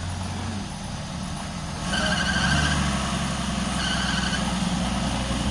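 Off-road 4x4's engine working through mud, running steadily and then louder under throttle from about two seconds in, with two brief high-pitched squeals.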